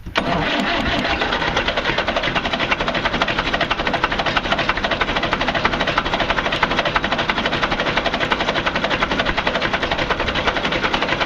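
International B275 tractor's four-cylinder diesel engine being cranked by its electric starter, turning over steadily for about eleven seconds without starting, then the starter cuts off. A hard cold start that the owner puts down to water in the fuel.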